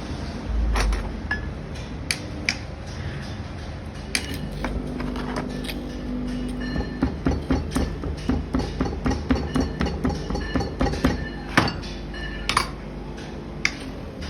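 Metal clinking and tapping during hand work on a fridge compressor, with a quick, even run of light knocks, about three a second, through the middle.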